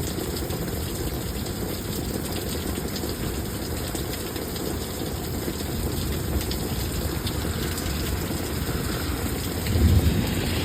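Steady rush of heavy thunderstorm rain and running floodwater, with a louder low rumble near the end.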